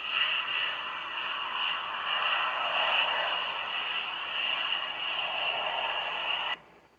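Jet aircraft landing: a steady rushing noise with a high whine that cuts off suddenly near the end.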